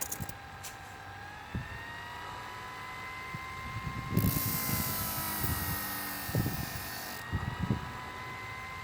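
Sharp-N-Go Mini portable sharpening machine's small electric motor running with a steady whine that drifts slightly in pitch. About four seconds in, a knife blade is held to the spinning abrasive for about three seconds, adding a loud grinding hiss, with a few dull knocks as the blade is handled.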